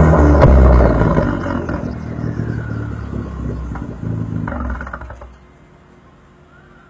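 2016 Ford Fiesta ST's turbocharged 1.6-litre four-cylinder running through a straight-piped exhaust with the muffler and resonator deleted. It is loud at first, then falls away over a few seconds, surges briefly near the five-second mark, and drops to a low background level.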